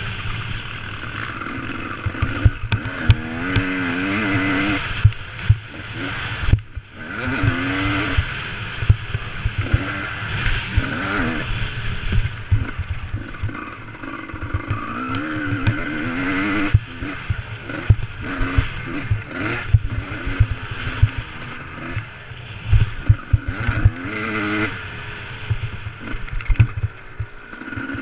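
Motocross bike engine revving up and down over and over, with dense low thumps and clatter throughout.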